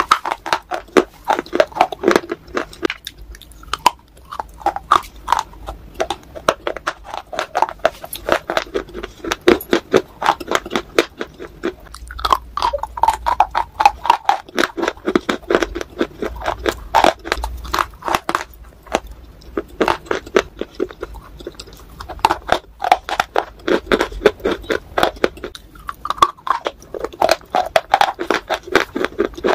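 Close-up crunching and chewing of dry baked clay bars, a dense run of crisp, gritty crackles as the pieces break down in the mouth.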